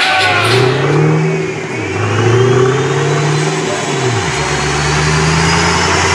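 Ford Shelby GT500's supercharged V8 under load on a chassis dyno. The engine pitch climbs, drops about one and a half seconds in, climbs again, drops about four seconds in, then holds, while a thin high whine rises steadily throughout.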